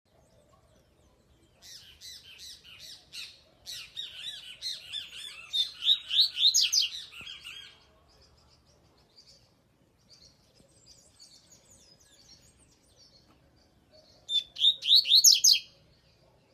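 Male double-collared seedeater (coleiro) singing: a long, fast twittering phrase that grows louder and climbs toward its end, a softer twitter after it, and a short loud phrase near the end.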